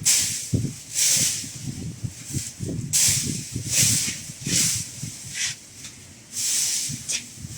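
Rhythmic rustling or scraping strokes, roughly one a second, each a short hiss, over an uneven low rumble.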